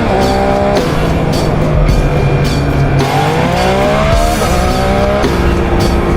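Triumph Trident 660 inline three-cylinder engine on stock exhaust pulling hard through the gears: the pitch rises, drops sharply at a quickshifter upshift about a second in, holds steady, then climbs again and drops at two more quick upshifts around four and five seconds in.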